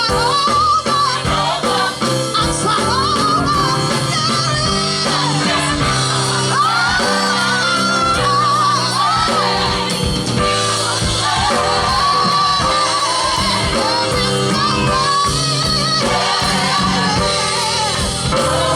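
Gospel group singing with band accompaniment: a lead voice with wavering, ornamented sustained notes over a steady instrumental backing.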